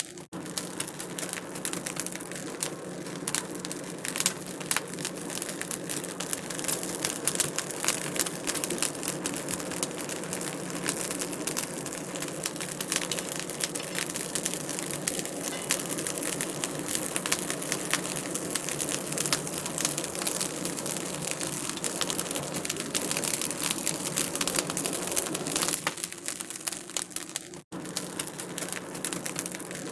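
Wood fire crackling steadily in a fireplace, with dense irregular snaps and clicks over a low hiss and a faint steady hum. The sound cuts out for an instant twice, at the very start and near the end.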